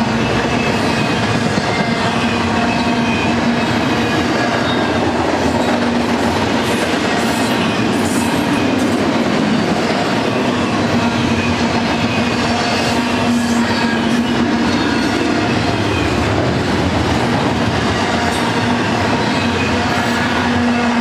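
Double-stack intermodal freight train's well cars rolling past at trackside: a steady, loud rumble and rattle of wheels on the rails and the loaded cars, with a faint hum that comes and goes.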